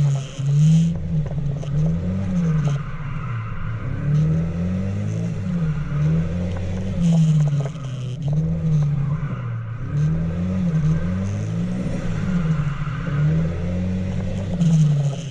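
Engine of a drifting vehicle revving up and down again and again, its pitch climbing and dropping about once a second, with short bursts of higher hiss between the revs.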